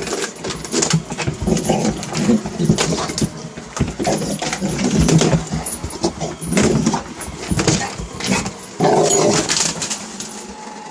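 A dog vocalizing in a long string of short whining, complaining bursts, about one every half second to a second: his protest at being vacuumed near.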